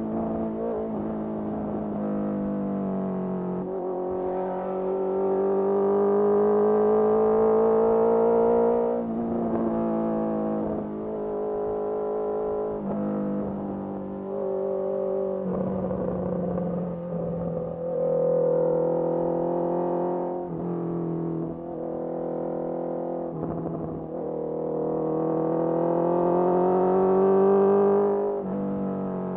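Honda CBR650R's inline-four engine through a Mivv MK3 carbon slip-on exhaust under way, climbing steadily in pitch and getting louder through two longer pulls, one about four seconds in and one near the end, with drops in pitch between as the throttle eases off and the gears change.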